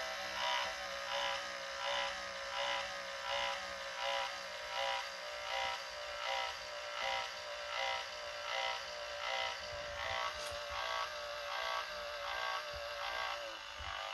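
The small electric motor of a 1995–99 Chevrolet Suburban power mirror, run straight off a battery, tilting the mirror glass downward: a steady electric whine that rises and falls about twice a second.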